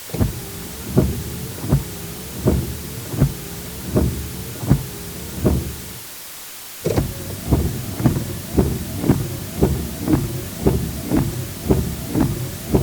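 Car windshield wipers sweeping, with a motor whine that rises and falls across each stroke and a knock at each turn, about every three quarters of a second. After a short stop about six seconds in, they start again faster, at about two strokes a second.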